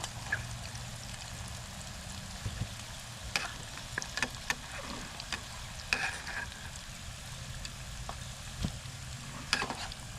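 Oil sizzling steadily in a camping pot as breaded food fries on a portable camp stove, with a few sharp clicks scattered through.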